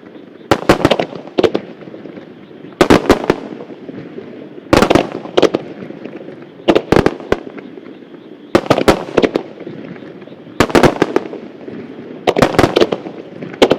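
Starmine fireworks barrage: clusters of sharp bursting bangs, several reports in each, coming about every two seconds.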